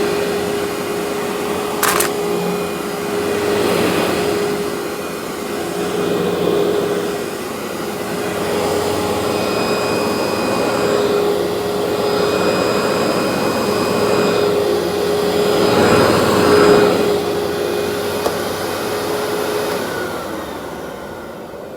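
Workhorse vacuum cleaner running with a steady motor whine over a rushing airflow, with a sharp click about two seconds in. Near the end the motor's pitch drops and the sound fades as it winds down.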